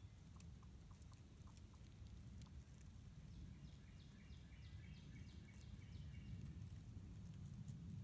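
Near silence with a faint low rumble. In the middle a distant bird sings a quick run of about eight down-slurred notes.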